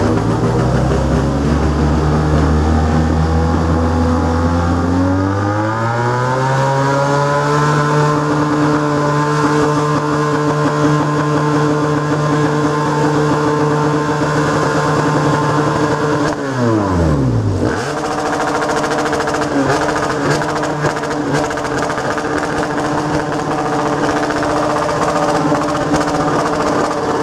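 Motorcycle engine under way. Its revs climb over a few seconds and then hold steady. About seventeen seconds in the pitch drops steeply, then picks up again and runs steady.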